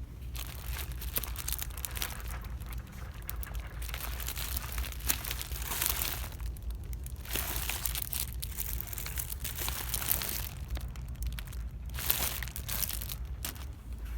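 Irregular crinkling and rustling, like plastic or paper being handled, over a steady low hum.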